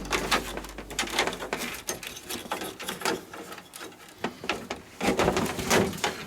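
Irregular clicking and rattling of a TV being taken apart: parts and fasteners knocking and clattering by hand, with a louder cluster of clicks about five seconds in.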